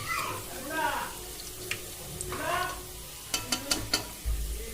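A metal cooking utensil clicking sharply four times in quick succession against a pan, then a low thump, as fried onions are scooped out of the oil, over a faint sizzle. A voice speaks briefly earlier.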